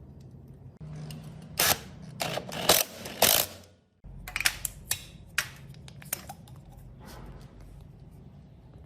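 Sharp mechanical clicks and knocks from tools and metal parts being worked: four loud strikes in the first half, then a brief drop out and a run of lighter clicks.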